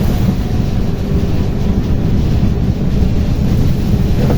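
Tuktuk running along a road, its motor and road noise mixed with wind buffeting the microphone into a loud, steady rumble.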